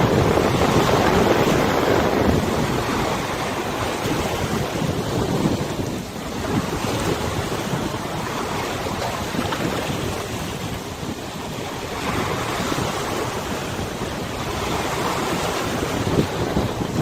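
Wind buffeting the microphone over the wash of river waves. It is loudest in a gust over the first couple of seconds, then swells and eases.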